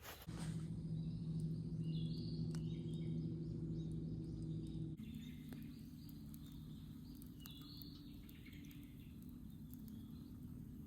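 A steady low hum, louder for the first half and dropping about halfway through, with small birds chirping a few times over it.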